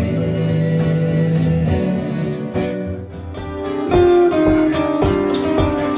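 Live acoustic band music: a singer holds the last word "again" over strummed acoustic guitar. About three seconds in it breaks off and repeated plucked guitar notes of the next song begin.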